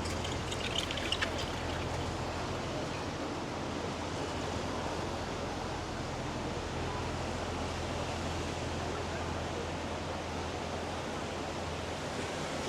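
Steady hiss of falling rain, with a few short sharp ticks about a second in and a low steady hum underneath.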